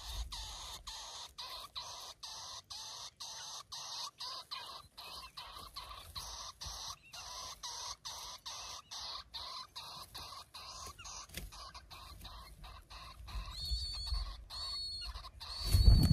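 Nestling birds giving high, thin begging calls without pause. A few louder, clearer chirps come near the end, then a brief low thump right at the close.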